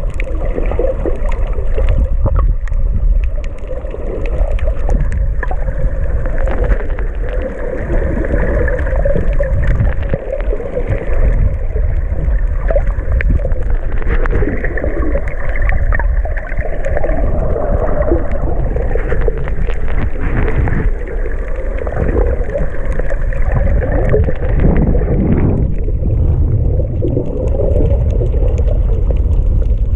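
Underwater sound picked up by a GoPro: a continuous low rumble with a wavering hum over it, an unidentified 'mystery sound'.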